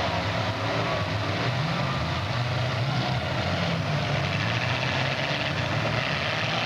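Demolition derby car engines running hard together, revving up and down in a steady wall of engine noise.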